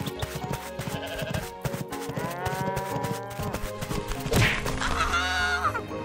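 Cartoon ram bleating twice: a long call about two seconds in and a shorter quavering one near the end, over a fast run of sharp clicks.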